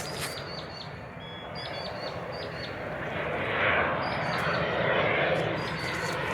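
An aircraft's engine noise swelling steadily louder as it approaches, with small birds chirping in short repeated notes over it.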